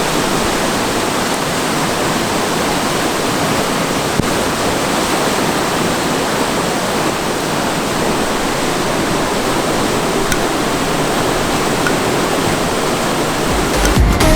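Rushing water of a river-surfing standing wave in a fast-flowing canal: a steady, even rush with no let-up. Electronic dance music cuts in near the end.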